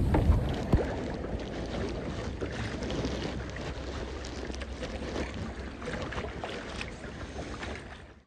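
Water splashing around a kayak with scattered knocks and clicks, over a low wind rumble on the phone's microphone inside a waterproof case.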